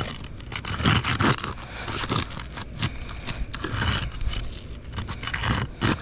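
Repeated irregular scraping and prying as a roof shingle is worked loose from underneath. The shingle is brittle and hard to remove, tearing as it is pried.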